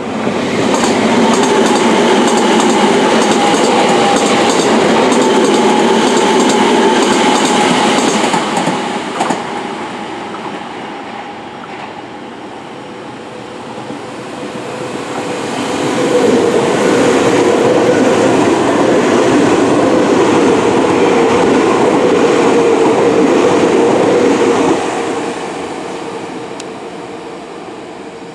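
Electric trains running past at high speed. The first loud passage, with rapid wheel clatter over the rail joints and a steady tone, fades about ten seconds in. A second loud pass swells up around sixteen seconds and dies away near the end.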